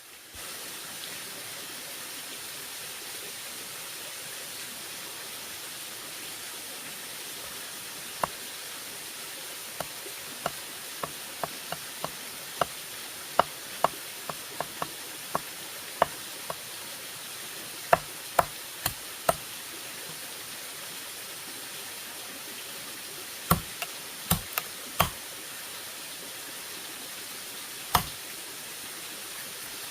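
Irregular sharp knocks of a tool striking bamboo, some single and some in quick groups of two or three, over a steady hiss. The knocks begin about a quarter of the way in and are loudest in a cluster near the end.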